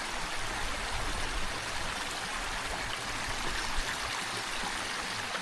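Steady rush of flowing water, like a stream, with no change in level.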